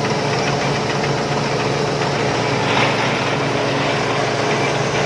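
Rice combine harvester's engine running steadily, with a brief louder rush of noise a little over halfway through.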